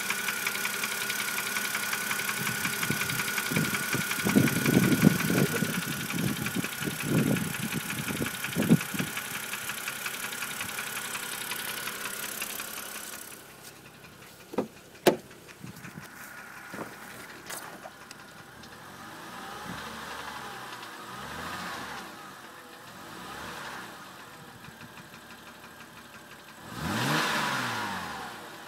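BMW 330i engine running with a loud, fast, even ticking, blipped to higher revs several times. The ticking's cause is unknown to the owner.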